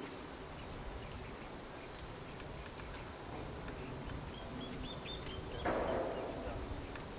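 Wild songbirds singing, with many short high chirps that cluster thickly about five seconds in. A broad rushing noise rises under them near the end.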